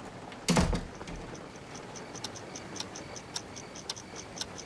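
A soft thump about half a second in, then a clock ticking steadily, about four quick ticks a second.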